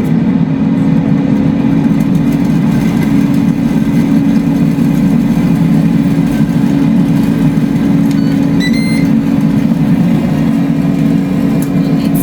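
Air fryer's fan running at 400 degrees, a loud steady hum just after switch-on.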